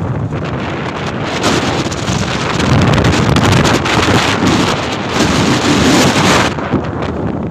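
Wind buffeting the microphone over the rushing noise of a moving truck. It grows stronger about a second and a half in and eases near the end.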